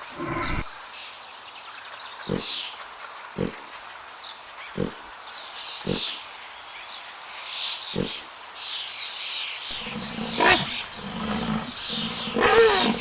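A big cat growling and roaring from about ten seconds in, its pitch sliding up and down. Before it come faint high bird chirps and five short, low thumps spaced one to two seconds apart.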